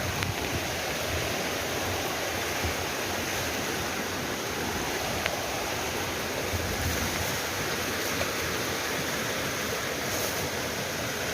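Mountain river rushing steadily, a continuous even rush of water, with a few low thumps near the start and about seven seconds in.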